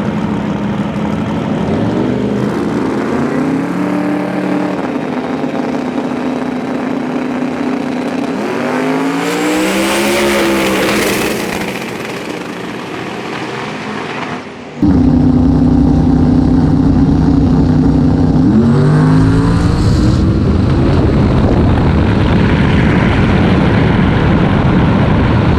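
Drag race cars at full throttle, engine pitch climbing and falling as they rev and run down the track. About fifteen seconds in, the sound cuts abruptly to a louder, closer engine.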